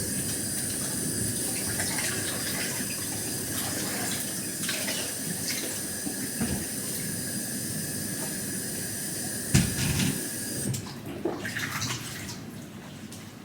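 Water running from a tap, shut off sharply about eleven seconds in, followed by a few light knocks.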